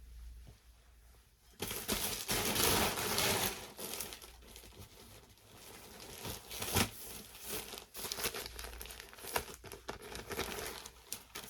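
Plastic clothing packaging crinkling as it is handled and opened, starting about a second and a half in, loudest just after it starts, then carrying on in irregular bursts with sharp crackles.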